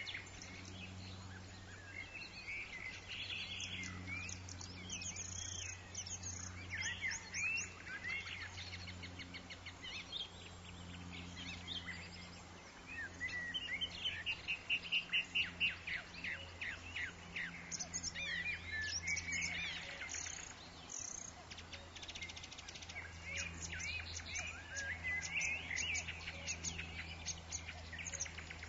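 Forest ambience of several birds calling and singing in short chirps and whistled phrases, with a fast run of rapidly repeated notes about halfway through. A steady low hum runs beneath the birdsong.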